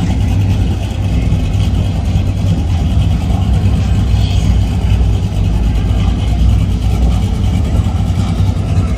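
A large engine idling close by with a steady, loud low rumble that neither revs up nor drops.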